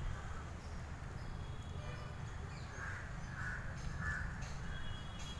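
A crow cawing three times in quick succession, about half a second apart, over a steady low rumble.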